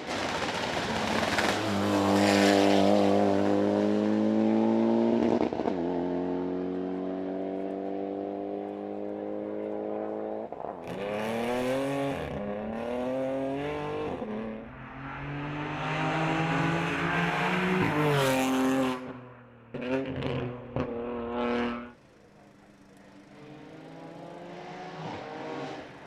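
Racing car engine at high revs on a hill climb, holding a loud note, then revving up through several gears with quick upshifts as it pulls away. A few short bursts follow, and the sound drops away sharply near the end.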